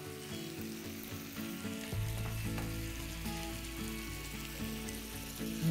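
Chicken and sliced tomatoes sizzling in a hot frying pan while being stirred with a wooden spatula.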